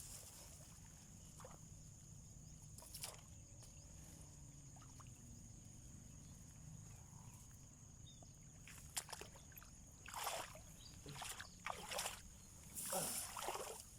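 Quiet water with a few soft knocks, then several short bursts of splashing and sloshing in the last few seconds.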